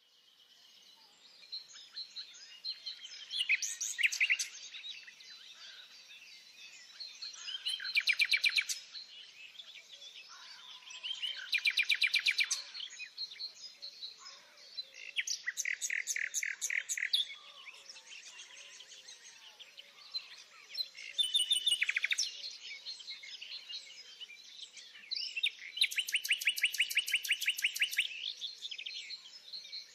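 Songbirds singing: a loud phrase of fast repeated high notes comes roughly every four seconds, over quieter continuous chirping from other birds.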